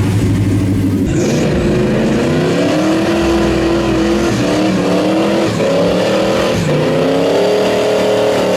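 Car engine accelerating hard through the gears after a steady low run for the first second. The revs climb and fall back at each shift, several times.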